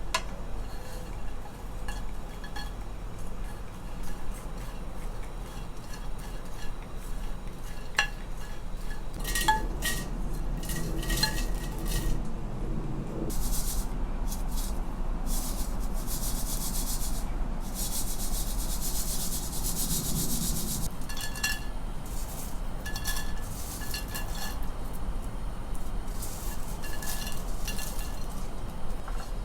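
Dry burdock root slices being stirred and tossed in a dry pan with no oil, giving an irregular scraping and rustling with small clinks of the utensil. The sound comes in heavier spells around the middle.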